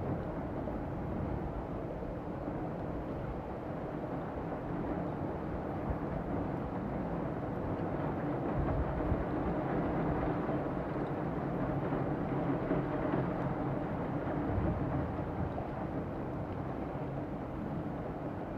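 Heavy rain pouring down on a street, a steady rush of noise, heard through a screened window.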